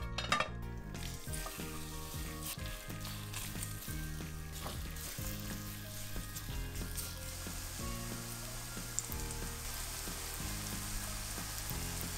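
Zucchini, onion and egg batter frying in hot oil in a pan: a steady sizzle that starts about a second in, with light stirring noises as the batter is spread out.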